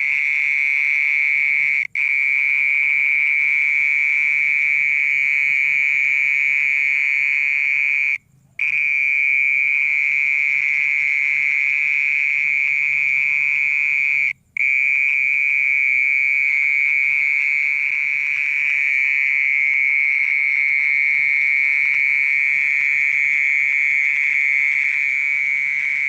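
A steady, high-pitched buzzing trill coming from inside the ground, typical of a mole cricket calling from its burrow. It holds one unchanging pitch and drops out briefly three times.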